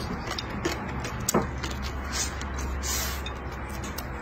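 A person chewing a mouthful of stir-fried meat and vegetables, with a few wet mouth clicks and smacks over a steady low hum.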